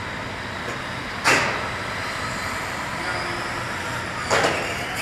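Radio-controlled cars running on a track: a steady wash of noise with a faint high whine that glides up and down. A sharp knock comes about a second in, and a louder clatter comes a little over four seconds in.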